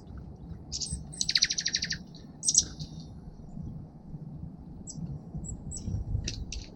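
Small songbirds calling at a feeder: short high chirps throughout, and a rapid buzzy trill lasting under a second, about a second in, over a low steady background rumble.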